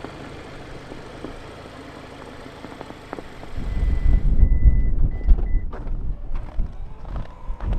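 Steady low hum of a car for about three and a half seconds, then loud gusty wind rumbling on the microphone, with a short run of high electronic beeps and a few knocks.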